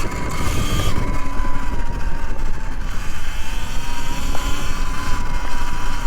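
Electric dirt bike being ridden: heavy wind rumble on the microphone with a steady, slightly wavering whine from the drivetrain.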